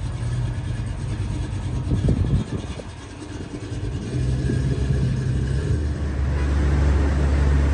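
Classic Mercury Cougar's engine running as the car rolls slowly past, with a louder swell about two seconds in. Near the end a steady low hum takes over.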